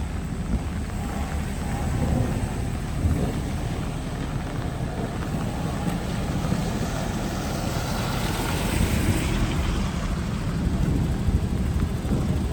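Street ambience of a market road: a steady low engine rumble of traffic with wind buffeting the microphone, swelling briefly about two-thirds of the way through as a vehicle goes by.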